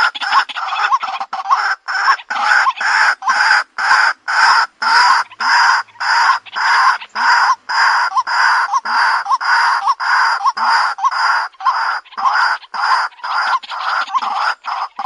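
White-breasted waterhen calling: a rapid run of harsh, evenly repeated notes, about two to three a second, that keeps going without a break.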